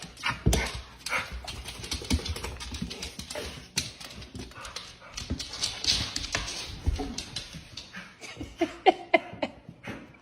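A pet animal giving a few short, high cries about nine seconds in, over steady rustling and scattered sharp knocks of movement.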